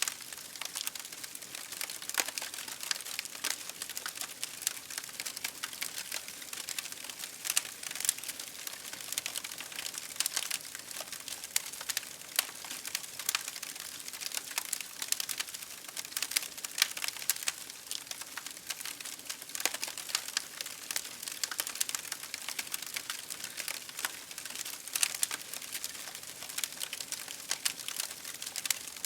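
Campfire crackling: a dense run of irregular sharp pops and snaps over a steady hiss.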